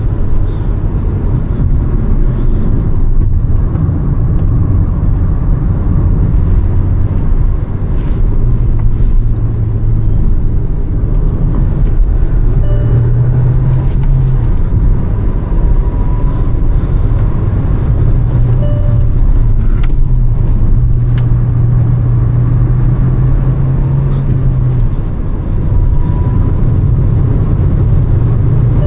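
Hyundai Verna's 1.5-litre turbo petrol four-cylinder engine pulling on the move, with road noise. The engine note shifts up and down several times as revs change, with a brief drop in loudness near the end as at a gear change.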